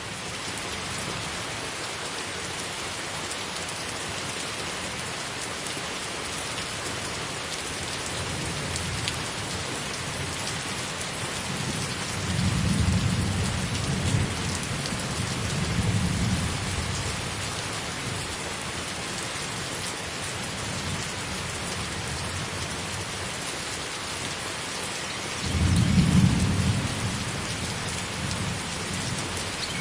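Thunderstorm: steady rain hissing throughout, with thunder rumbling for several seconds about halfway through and again, more briefly, near the end.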